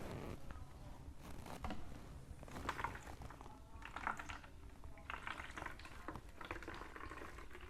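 Water being poured into a plastic toy, faint trickling and splashing in a few irregular bursts.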